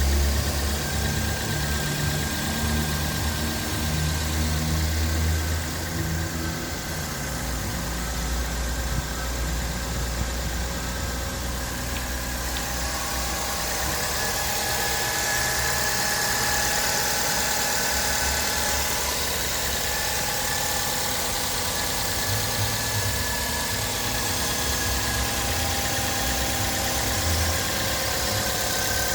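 Suzuki Swift's engine idling steadily while its repaired heater is checked, with a faint steady whine above the idle in the second half.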